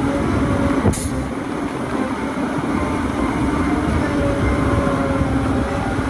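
Large Caterpillar wheel loader's diesel engine running steadily under load, with one sharp knock about a second in.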